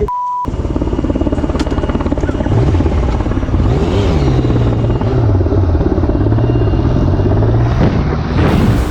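A short censor bleep, then a motorcycle engine pulling away, its pitch rising and falling through the gears.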